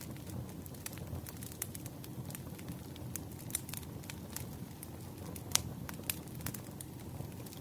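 Wood fire crackling: irregular sharp pops and snaps, a few louder ones such as one about five and a half seconds in, over a steady low rumble.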